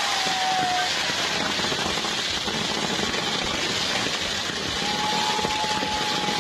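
Large bonfire burning with dense, rapid crackling. A thin whistling tone comes in briefly at the start and again about five seconds in.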